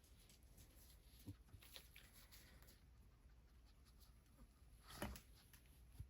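Faint soft rubbing and rustling of hands massaging a bare foot, with small scattered clicks and one louder brush about five seconds in.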